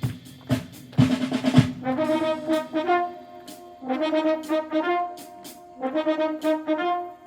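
Wind orchestra playing, with the brass section sounding short held chords separated by brief breaks. A few sharp drum strokes are heard in the first second and a half.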